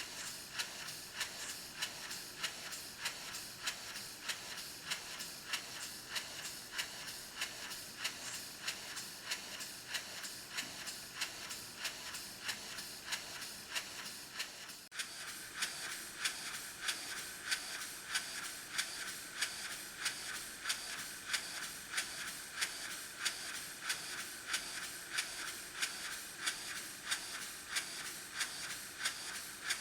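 EIWI model table engine running slowly on compressed air, its spool valve letting out an even puff of exhaust about twice a second. The beat steps up in level about halfway through.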